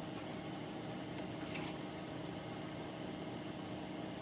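Steady, low-level machine hum, like a small fan running, with a short faint hiss about a second and a half in.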